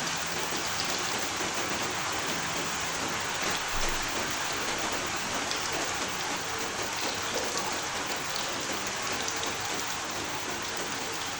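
Steady rain falling, an even hiss of rain with scattered individual drop ticks, and a brief low bump about four seconds in.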